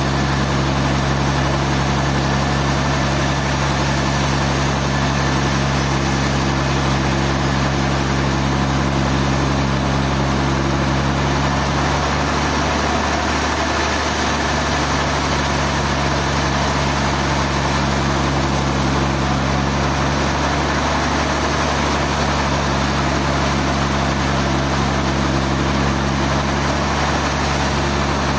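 Sawmill machinery running steadily: a constant engine drone with a hiss over it. The deep tones shift slightly about halfway through.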